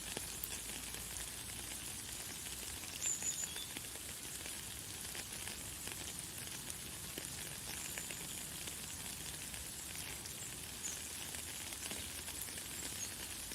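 Light, fine rain falling steadily: an even hiss of many tiny drops pattering. A few brief, high bird chirps sound over it, the loudest about three seconds in.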